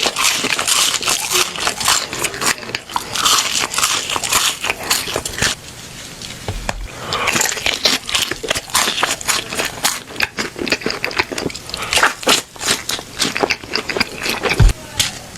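Close-miked crunching and chewing of crispy food: rapid, irregular crackling bites and chews, briefly quieter about six seconds in.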